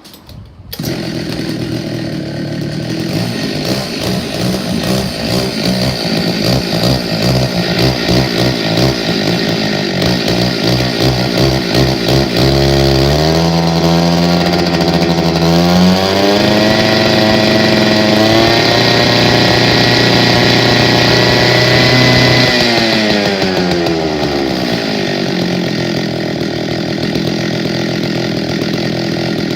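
Partner K700 engine cutter's two-stroke petrol engine starting up about a second in and idling unevenly. It is then revved up to high speed, held there for several seconds, and allowed to drop back to idle.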